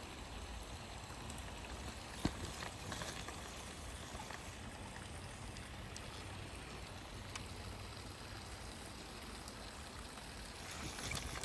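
Steady hiss of flowing creek water with a low rumble beneath it; a single sharp click about two seconds in.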